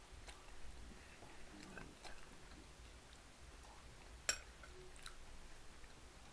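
Faint mouth sounds of a person chewing food, with scattered small clicks and one sharp click about four seconds in.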